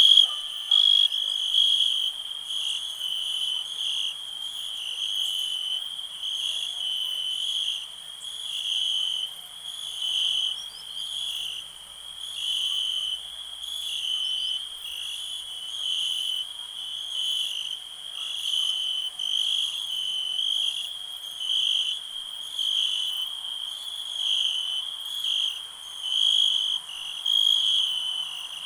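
Crickets chirping in a steady high trill that swells and fades every second or two.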